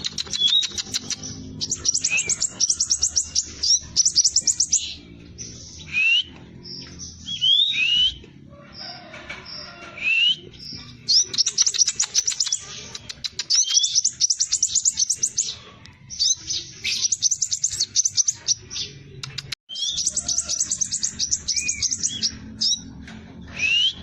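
Scarlet minivet (sepah raja) singing continuously: phrases of very rapid, high-pitched trills in quick succession, broken by short slurred whistle notes, with brief pauses between phrases.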